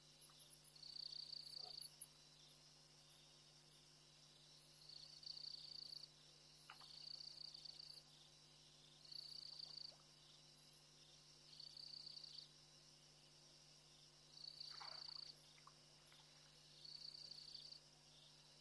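Faint insect calling: a high buzzing trill about a second long, repeating roughly every two seconds.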